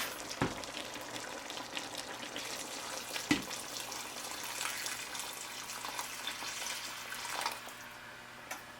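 Hot water being poured into a pot of curry chicken and potatoes, a steady splashing stream, with a couple of light knocks.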